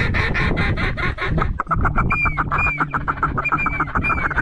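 Duck calls blown fast to bring in approaching ducks: a quick clicking chatter of about nine notes a second, then short rising-and-falling whistled notes about twice a second, over low wind rumble.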